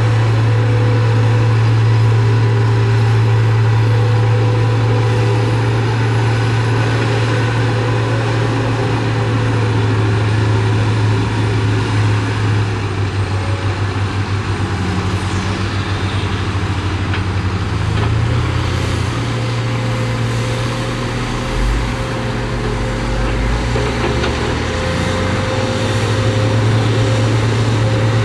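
Heavy diesel engine of an earthmoving machine running, a loud steady low drone. Its note drops and wavers for a stretch in the middle, then steadies again.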